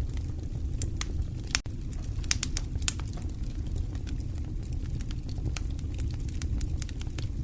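Fire crackling: scattered sharp pops and snaps over a steady low rumble of burning, with two louder pops about a second and a half and three seconds in.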